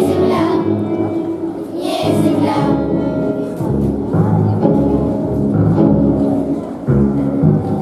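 Children's choir singing with instrumental accompaniment. The voices thin out about three seconds in, leaving mostly the accompaniment's low chords.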